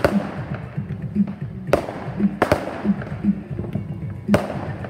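Fireworks going off: four sharp bangs, each trailing off in an echoing tail, the second and third close together. Music with a steady bass beat plays underneath.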